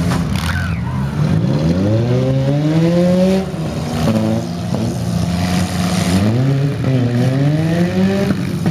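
Demolition derby minivans and small pickups with their engines revving hard, the pitch climbing three times as they accelerate and dropping back between runs. A few sharp bangs of collisions come through, the clearest right at the start.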